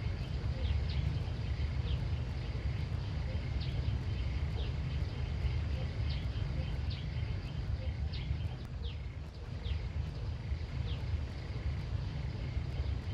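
Countryside outdoor ambience: a steady low rumble under repeated short, falling bird chirps, with a faint steady high hum behind them.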